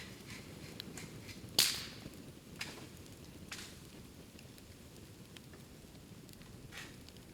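Bamboo bonfire crackling, with sharp cracks as heated bamboo culms burst; one loud crack comes about a second and a half in, and a few smaller pops follow.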